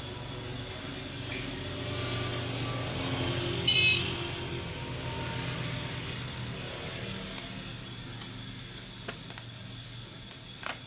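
A motor vehicle's engine hum that swells and then fades, as of a vehicle going by, with a brief high-pitched tone about four seconds in.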